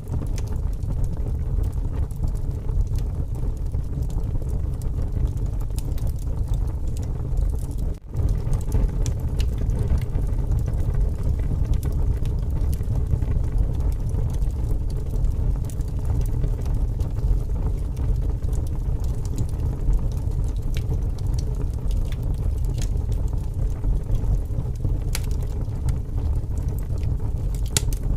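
Wood fire burning with scattered sharp crackles and pops over a steady low rush of strong wind. The sound drops out for an instant about eight seconds in.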